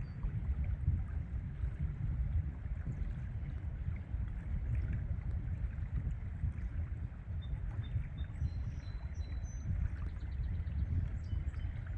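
Steady rush of flowing river water with a low rumble underneath, and a few faint high chirps of a small bird about two-thirds of the way through.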